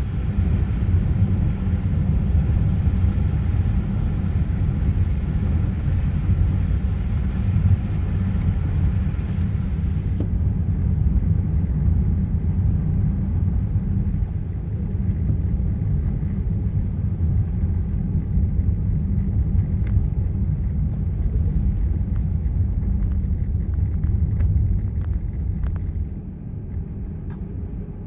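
Car driving through snow: a steady low rumble of tyres and engine. The higher hiss drops away about ten seconds in, and the rumble drops in level near the end.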